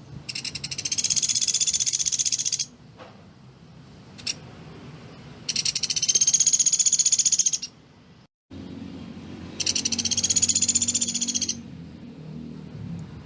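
Pelatuk beras bird giving three rapid, dense trills of quickly repeated high notes, each about two seconds long and a few seconds apart. This is the tight 'tembakan' trill prized as tutor song for other cage birds.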